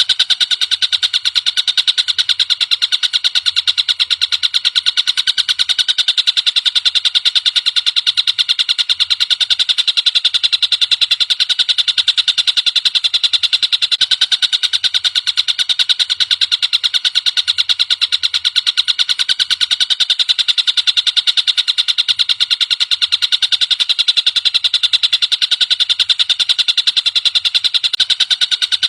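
Tengkek buto bird call recording: a continuous, very fast high-pitched trill of rapidly repeated notes, unchanged throughout.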